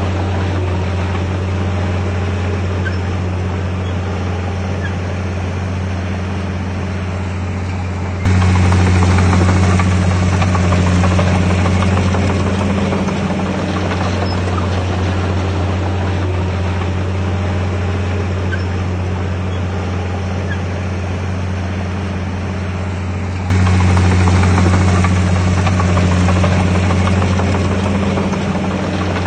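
Heavy earthmoving machine's diesel engine running steadily under work, a deep, even hum. The sound jumps abruptly louder twice, about 8 and 23 seconds in, then eases back.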